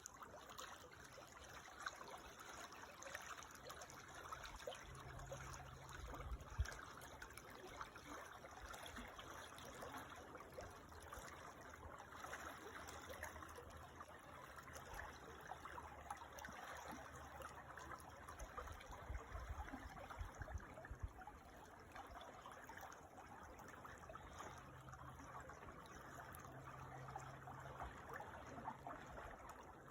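A creek's water trickling steadily and quietly, with a faint low rumble coming and going underneath.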